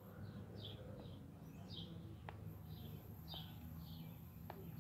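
Faint outdoor ambience: a small bird chirping, short chirps repeating about once or twice a second, over a low steady hum, with a few soft clicks.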